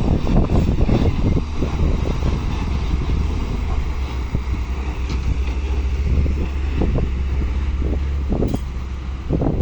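Heavy diesel engine of loading machinery running with a steady low hum, with wind buffeting the microphone.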